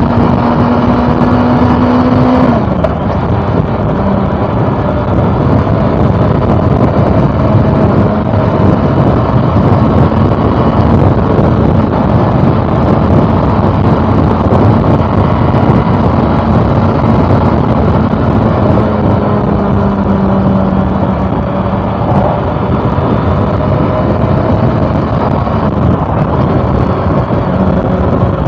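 Honda CB400 Super Four's 399 cc inline-four engine running at a steady cruise, under a heavy rush of wind and road noise. Its pitch drops about two and a half seconds in, creeps up slightly later on, and drops again near the end.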